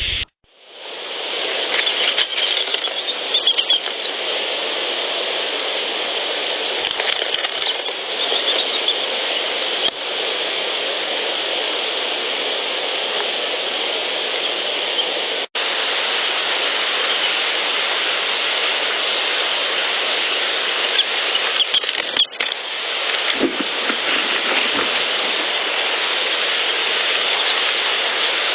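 Heavily amplified field-recorder audio: a loud steady hiss with faint sounds of a small animal in it. It is several clips spliced together, with short breaks about 15 and 22 seconds in.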